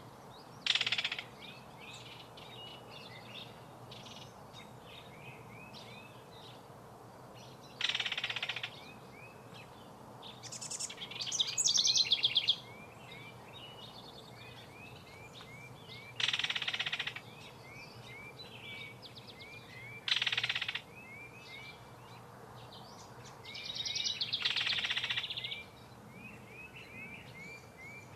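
Kingfisher giving loud, harsh rattling calls in six separate bursts, each lasting half a second to two seconds. Between them runs a steady series of short, high chirps.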